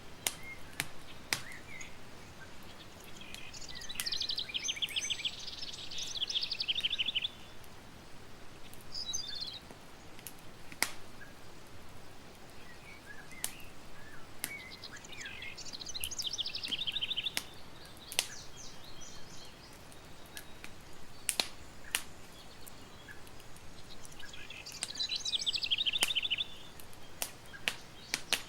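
Campfire crackling, with scattered sharp pops over a low steady hiss. A bird sings a rapid trilling phrase three times, about ten seconds apart.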